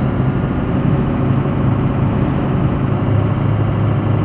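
Steady engine and road drone of a vehicle cruising on a highway, heard from inside the cabin, with a constant low hum.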